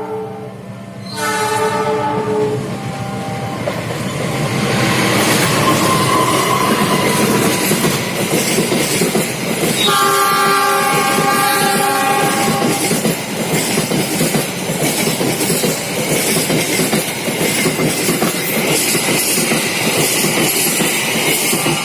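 Train horn sounding a short blast, then a train passing close by with its wheels clattering over the rail joints; the horn sounds again about ten seconds in, held for around three seconds.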